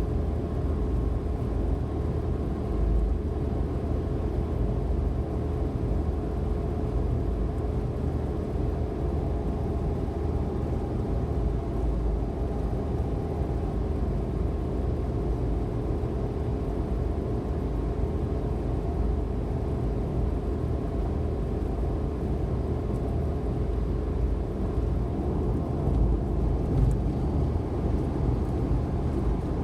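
Suzuki Every DA17V kei van's 660 cc three-cylinder engine running steadily with tyre and road noise, cruising at expressway speed.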